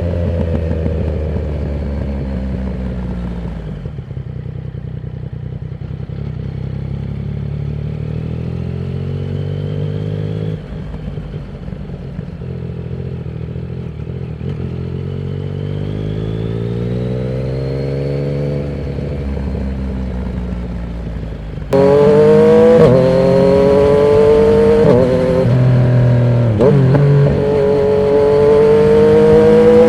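Yamaha MT-09's inline-three engine running through a Termignoni exhaust with the dB killer removed, under way. The engine pitch climbs steadily through the gears and drops back at shifts about four and ten seconds in. A little past twenty seconds it suddenly becomes much louder, with quick dips in pitch near the end.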